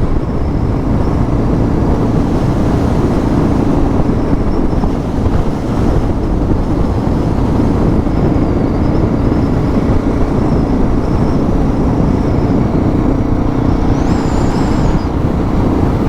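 Suzuki DR650 single-cylinder motorcycle engine running steadily under way at an even pace.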